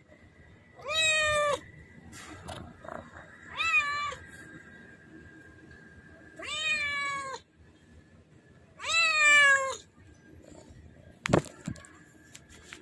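Kitten meowing four times in high, drawn-out calls, with a sharp knock near the end.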